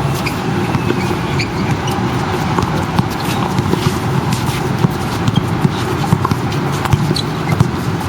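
Steady rushing noise with many scattered sharp knocks and taps at irregular intervals, the sounds of an outdoor team practice.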